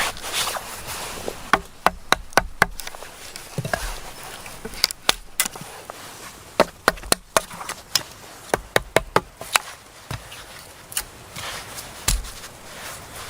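A tool striking wood: an irregular run of sharp knocks in short clusters with pauses between, as in chopping or hammering on timber.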